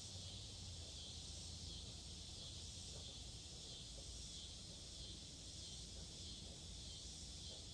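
Faint, steady high-pitched insect drone over a low hum, with no distinct tool sounds.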